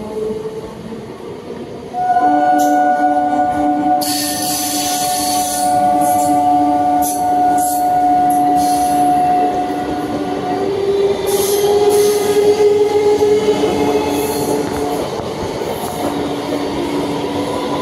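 Electric multiple-unit local train running past, with a loud steady tone that starts abruptly about two seconds in and changes pitch about ten seconds in, over the dense noise of the moving train.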